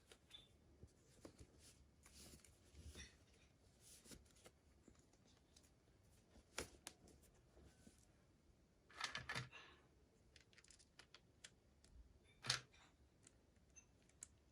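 Faint clicks and rustles of small toy packaging being handled during an unboxing, with a louder patter of clicks about nine seconds in and one sharp click near the end.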